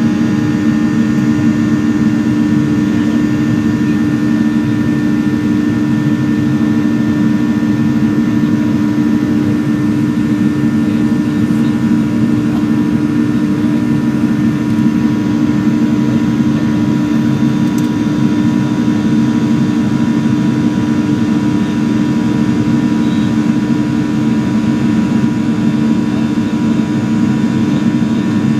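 Boeing 737-800's CFM56-7B jet engines running at a steady pitch: a constant loud drone with several fixed humming tones, neither rising nor falling.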